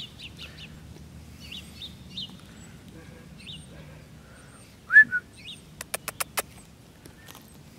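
Small birds chirping on and off, with one louder rising chirp about five seconds in, followed a moment later by a quick run of five sharp clicks.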